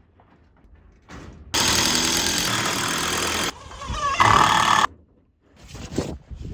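A power tool runs in a steady burst of about two seconds that starts and stops abruptly. About a second later comes a shorter, louder, higher-pitched burst.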